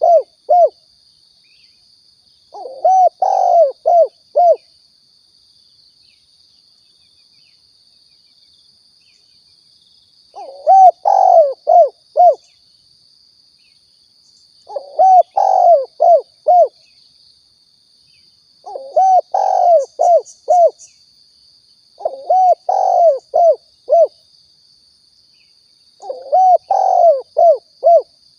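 Spotted dove (tekukur) cooing: a lure call of phrases of about six arching coos, each phrase roughly two seconds long, repeated six times with gaps of a few seconds. A faint steady high-pitched whine runs underneath.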